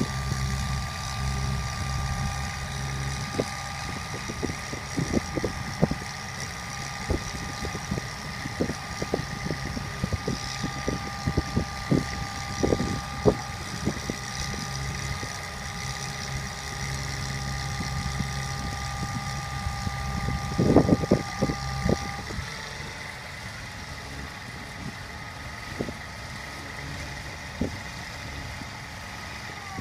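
A bucket truck's engine idling with a steady rumble and a high whine that cuts off about three-quarters of the way through. Sharp clicks and knocks come at intervals, with the loudest cluster just before the whine stops.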